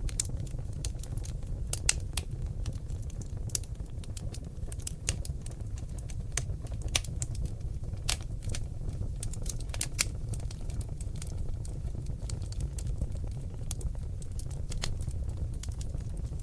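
Seasoned oak logs burning in a fireplace, crackling with irregular sharp pops and snaps over a steady low rumble of the fire.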